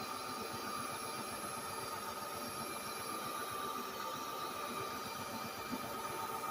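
Roborock Dyad Pro wet and dry floor vacuum running steadily, a constant high whine over a steady rush of air.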